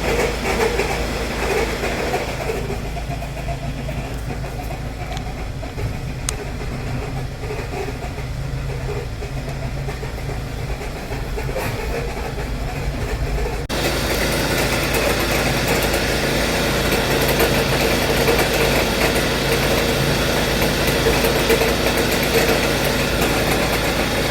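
A 2014 Hyundai Sonata's 2.4-litre four-cylinder engine running with an abnormal noise from the accessory drive, caused by a failing alternator and pulley tensioner. About 14 seconds in, the sound abruptly becomes louder and harsher.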